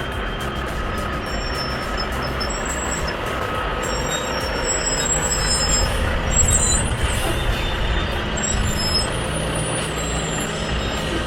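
Heavy haulage truck engine running with a steady low rumble that swells a little around the middle and then eases.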